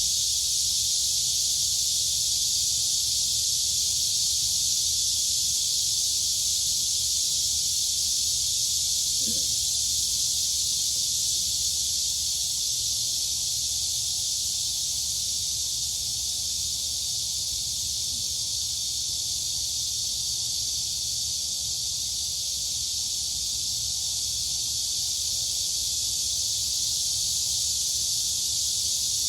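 Dense chorus of crickets and cicadas: a continuous high-pitched shrilling, steady in level with no breaks.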